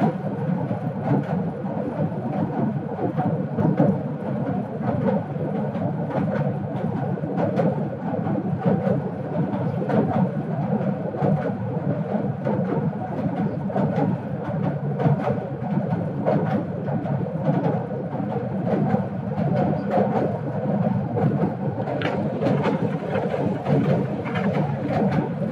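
Passenger train running across a steel truss rail bridge, heard from inside the carriage at an open window: a steady rumble of wheels on the rails with frequent sharp clicks and clanks.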